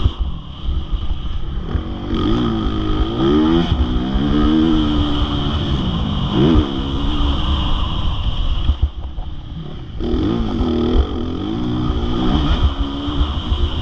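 Motocross bike engine revving hard and backing off again and again, its pitch rising and falling over a heavy low rumble, with a brief lull about nine seconds in.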